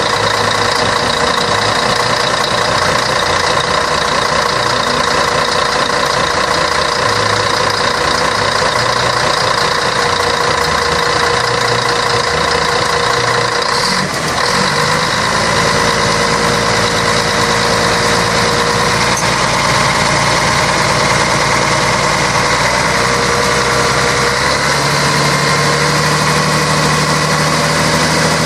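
Scania K113 bus's six-cylinder diesel engine running steadily with a constant drone. About halfway through there is a brief dip, and then the engine note settles into a slightly different steady pitch.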